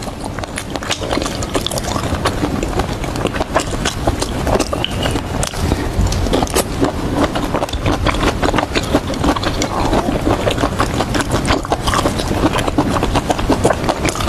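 Close-miked chewing and biting of grilled vegetables, a dense, irregular run of small crunches and clicks.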